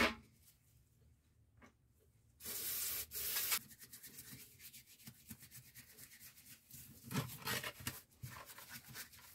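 Rubbing and wiping of parts being handled, with a loud hiss lasting about a second some two and a half seconds in.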